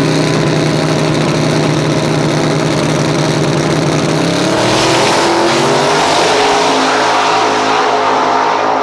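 Drag race car engine held at steady high revs on the line, then launching about four seconds in, its pitch rising as it accelerates away.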